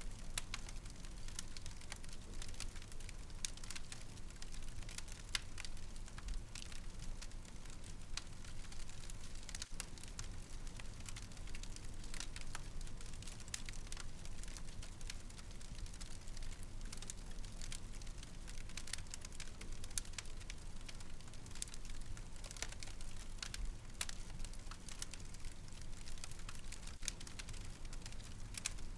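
Wood fire in a fireplace burning steadily, with a low rumble and many irregular sharp crackles and pops.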